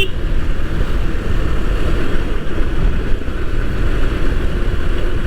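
Bajaj Pulsar NS 160 single-cylinder motorcycle cruising on the highway, steady engine drone mixed with wind rushing over the microphone.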